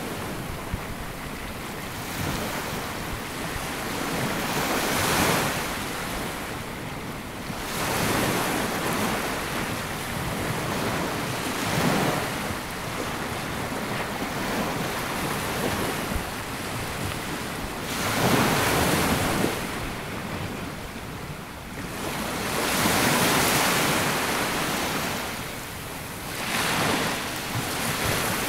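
Sea waves breaking and washing up a sandy beach, the surf swelling and falling back every four to six seconds.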